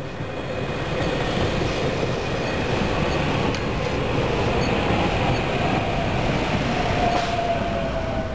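SEPTA Silverliner V electric multiple-unit train passing close by: steady rumble and rattle of wheels on rail that swells about a second in, with a faint whine that falls slightly in pitch in the second half.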